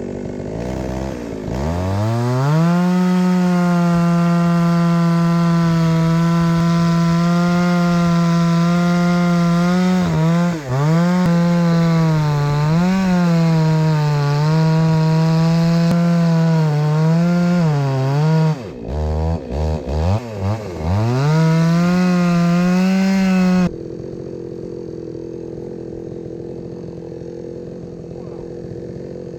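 Two-stroke chainsaw revved up to full throttle and cutting through firewood logs, its pitch sagging briefly under load several times, then throttled down and up in quick blips. About three-quarters of the way in the loud engine note stops abruptly, leaving a quieter steady hum.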